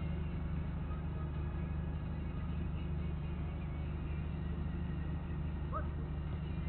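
Steady low hum throughout, with a short faint rising squeak near the end.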